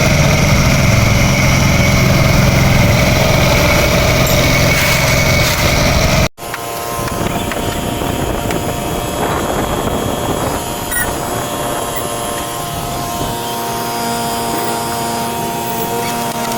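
Bajaj CT 100's single-cylinder four-stroke engine running steadily, cut off abruptly about six seconds in. A quieter steady hum with several fixed tones follows.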